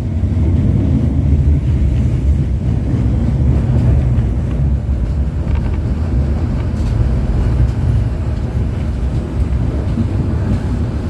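LVS-86K tram running, heard from inside the car: a steady low rumble of wheels on rails and the running gear, with a few faint clicks.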